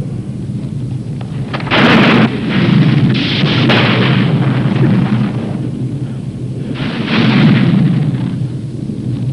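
Thunder crashing three times, about two, three and seven seconds in, over the steady low drone of an airliner flying through a storm.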